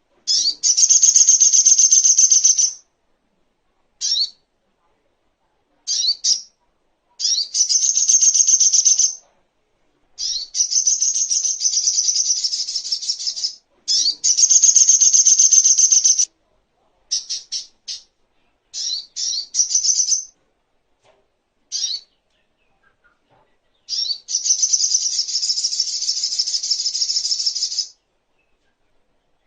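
Sogok ontong, a spiderhunter, singing: bouts of rapid, high-pitched chattering trills, the longest lasting two to four seconds, with short bursts of a few notes in between.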